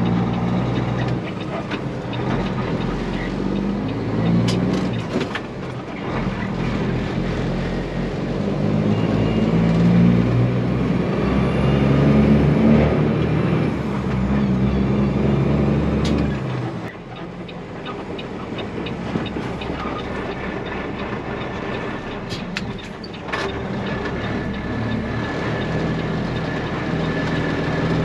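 Peterbilt semi truck's diesel engine pulling on the road, its note changing in steps as the gears change, with a brief dip about two-thirds of the way through.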